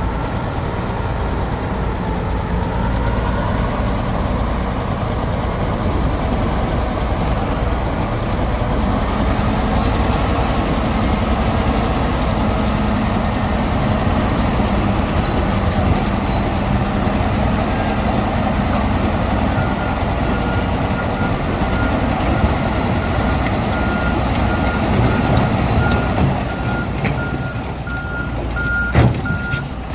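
Heavy diesel construction machinery running steadily. About two-thirds of the way in, a truck's reversing alarm starts beeping at an even pace, and a sharp knock comes near the end.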